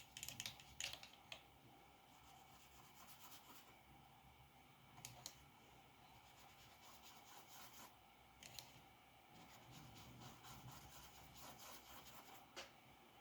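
Faint scratching of a drawing tool moving over paper in short strokes, with a few sharp ticks now and then.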